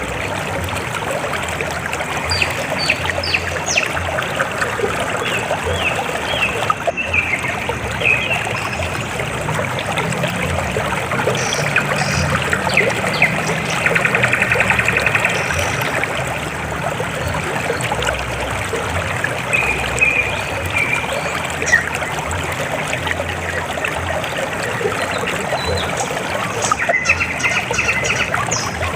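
River water flowing and trickling steadily, with brief high chirps scattered through it and a short rapid trill about halfway.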